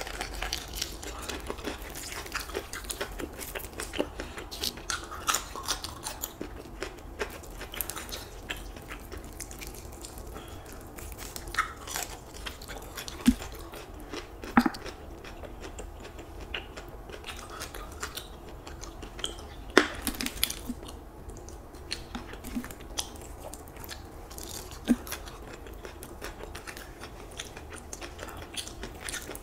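Close-miked chewing and biting of crispy fried chicken wings (Popeyes ghost pepper wings), with many short wet mouth clicks and crunches, and a few sharper, louder cracks.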